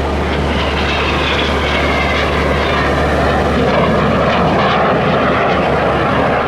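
Airbus A400M Atlas transport flying by, its four TP400 turboprop engines running loud and steady, swelling a little toward the middle of the pass.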